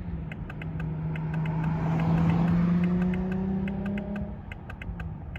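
A 2021 Toyota Supra 2.0's engine running, heard from inside the car: a steady hum that rises slightly in pitch, holds, and falls back about four seconds in. Faint regular ticking sounds throughout.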